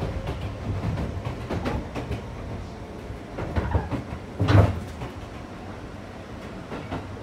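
Ex-Seibu 101 series electric train car running, heard from inside: a steady low rumble with irregular clunks and knocks, the loudest about four and a half seconds in.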